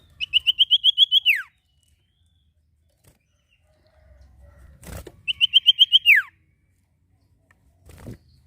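A songbird that Indonesian keepers call sirtu gives its call twice. Each call is a fast run of about ten short, high, even notes ending in a sharp downward slur. Soft thumps come between the calls.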